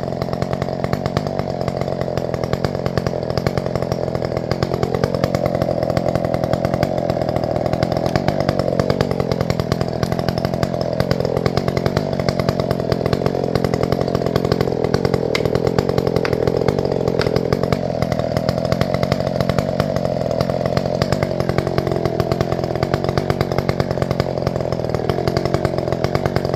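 Chainsaw running at high revs while sawing the back cut into a standing grand fir trunk, the engine note stepping up and down several times as the chain bites and eases in the wood.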